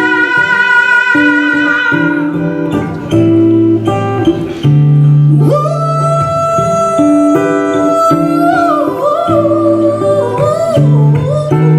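A female singer holds long sung notes in a live ballad performance: one held note at the start, then another long held note about halfway through that breaks into ornamented runs near the end, over guitar accompaniment.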